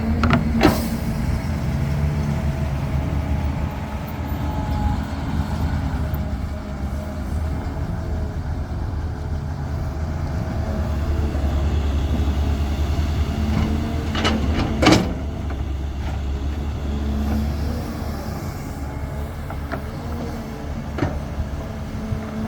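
Caterpillar 320 excavator's diesel engine running steadily at working revs, with sharp metallic clanks about half a second in, a louder one around the middle and a fainter one near the end.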